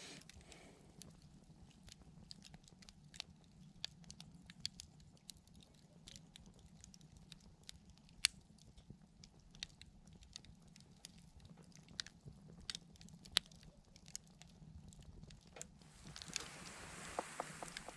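Wood campfire crackling: irregular sharp pops and snaps over a low, soft background, with a soft hiss swelling near the end.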